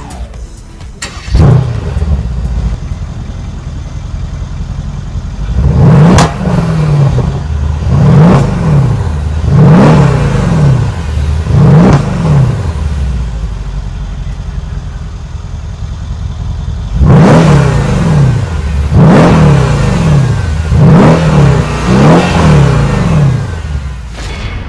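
Car engine starting about a second in, then revved repeatedly: four quick rises and falls in pitch, a pause at idle, then four more.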